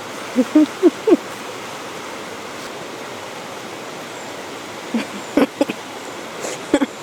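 Steady rush of a river and waterfalls. A few short, louder sounds break in near the start and again around five to seven seconds in.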